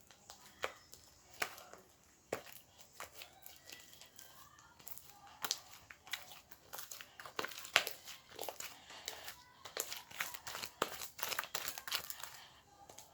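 Slime being squeezed, poked and stretched by hand, giving a string of sharp crackling pops and clicks from trapped air. The pops are sparse at first, come thick and fast from about five seconds in, and stop just before the end.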